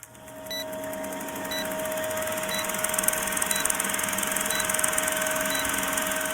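Electronic intro sound: a steady tone over dense rapid ticking, with a short high beep about once a second, fading in over the first second or two.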